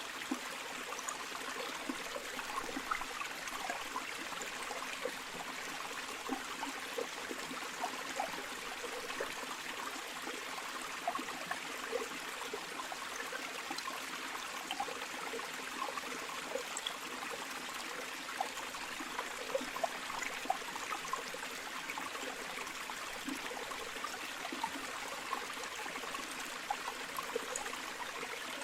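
A flowing stream or river running steadily over stones, a continuous rushing with small splashes and gurgles scattered through it.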